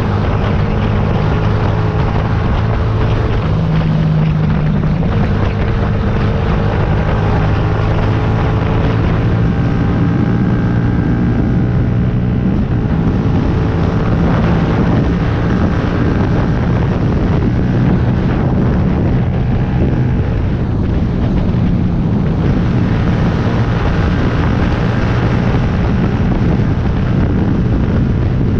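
2009 Yamaha YZF-R125's single-cylinder four-stroke engine running under way, its pitch rising and falling as the revs change, with steady wind noise on the microphone.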